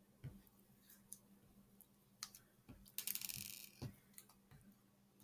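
Faint clicks and knocks of small plastic beads being handled, with a brief rattling pour about three seconds in.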